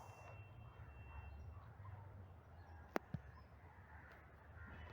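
Quiet outdoor ambience with faint distant bird calls, and a sharp click about three seconds in.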